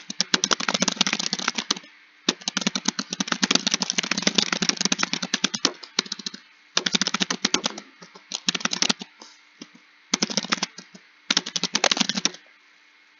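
Typing on a computer keyboard: rapid runs of key clicks in bursts of one to three seconds with short pauses between them, stopping a little after twelve seconds in.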